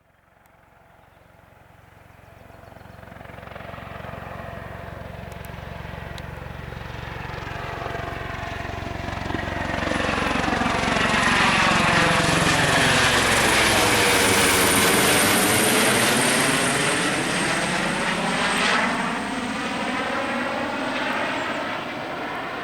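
Helicopter fitted with pontoon floats flying past: its engine and rotor sound builds steadily from faint to loud and peaks just past the middle. A high whine drops slightly in pitch as it passes, and the sound then eases off.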